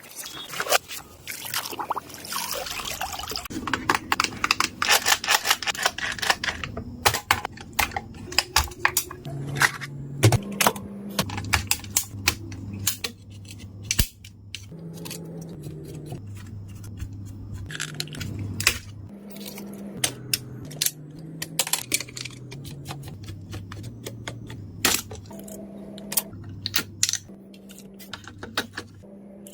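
Quick, irregular clicks and knocks of hard plastic toy parts being handled and pried apart, thickest in the first several seconds. Under them runs a low tune whose notes step slowly up and down.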